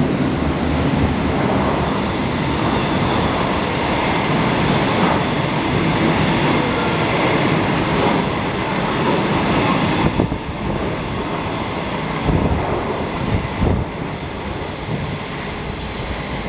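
Passenger coaches of a through train hauled by an SS8 electric locomotive passing at speed without stopping: a steady rush of wheels on rails, with clattering wheel clacks in the last few seconds as the tail of the train goes by.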